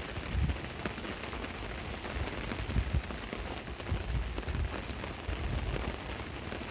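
Steady rain pattering on a tarp overhead, with many small sharp ticks and irregular low thumps.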